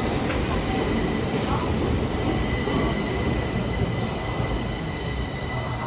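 Stockholm metro train running: a steady low rumble with several steady high-pitched tones held over it.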